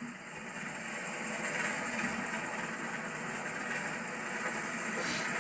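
Steady motor-vehicle running noise that swells a little over the first second or two and then holds.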